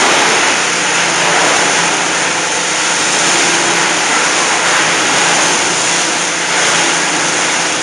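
Plastic shredder for CRT TV shells running, a loud steady dense noise with no break or change.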